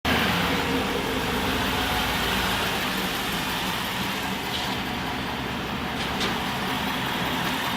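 A motor vehicle's engine running steadily, with an even low hum.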